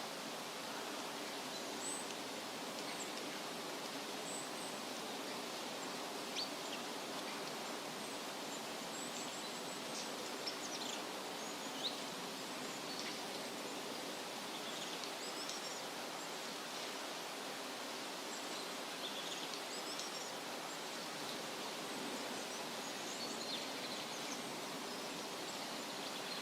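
Steady wind rustling through leaves, with small birds giving brief, high chirps every few seconds.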